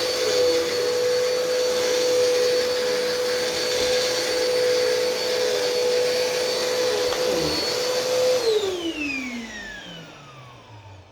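Bissell PowerLifter Swirl Pet upright vacuum cleaner running with a steady high motor whine, its pitch dipping briefly a few times. About eight seconds in it is switched off and the motor winds down, the whine falling steadily in pitch and fading.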